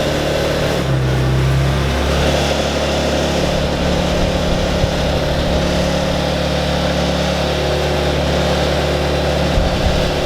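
Engine of the lifting machine pulling the tank's engine out, running steadily; its note steps up slightly about two seconds in and then holds.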